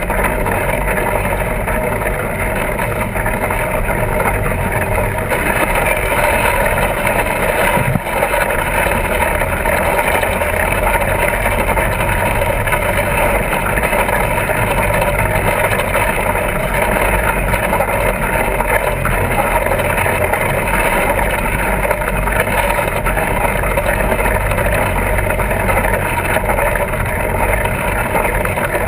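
Fat-tire bike being ridden: a steady, unbroken rolling drone from its tyres and drivetrain.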